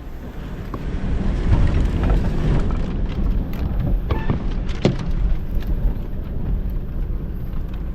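4x4 truck driving slowly over a loose rocky trail: low engine rumble and tyre noise, with a few sharp knocks from stones about halfway through.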